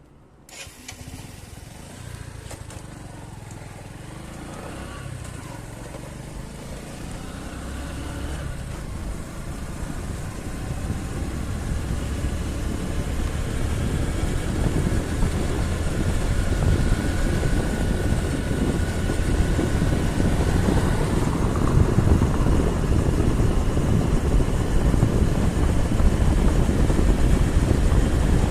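A road vehicle's engine and road noise, growing steadily louder.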